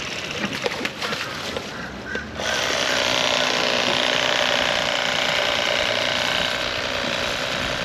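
Electric fillet knife cutting into a grouper: a few irregular clicks, then from about two and a half seconds in a steady buzz of its reciprocating blades.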